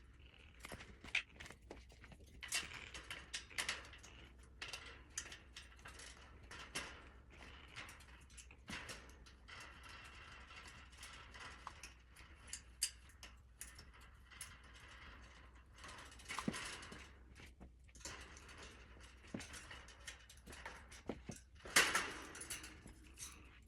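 Small screws being screwed into the metal top of a bird cage: scattered small clicks, ticks and scrapes of metal parts, with a couple of louder knocks near the end.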